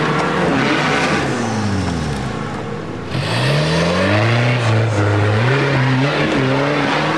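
Off-road 4x4's engine revving: its note falls away from about one to two and a half seconds in, then climbs sharply a little after three seconds and is held at high revs with small surges.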